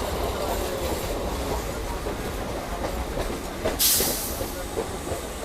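Electric local train running, a steady low rumble, with a short burst of hiss about four seconds in.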